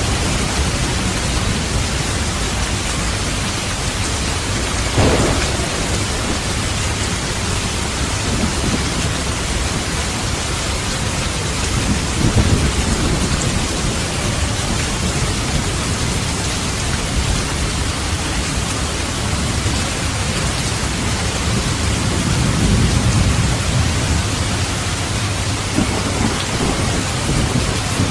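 Steady rain with thunder: a short sharp crack about five seconds in, then low rumbling rolls of thunder a little before halfway and again later on.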